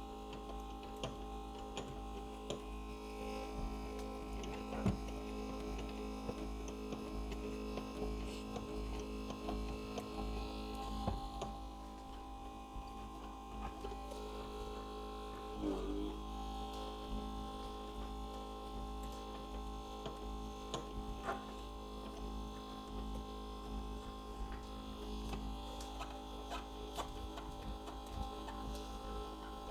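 A steady electrical hum with several fixed tones that never change, with faint scattered clicks and ticks over it.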